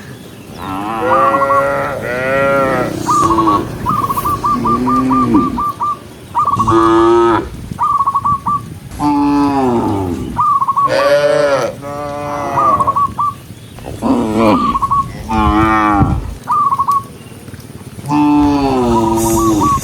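Cattle mooing over and over, more than a dozen calls, each about a second long and falling in pitch. Between the calls come short high trilling sounds, a quick run of them about four seconds in.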